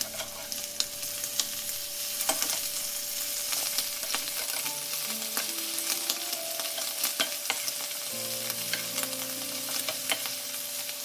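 Prawns shallow-frying in hot oil in a non-stick pan: a steady sizzle with many sharp clicks and scrapes as a spatula turns them over once the first side has browned.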